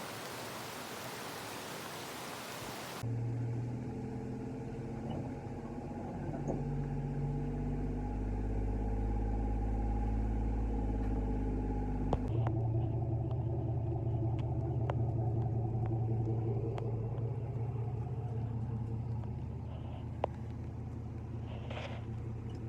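Rain hiss for about three seconds, cut off abruptly by a steady, low vehicle engine drone, as heard from a car, which shifts in tone about halfway through.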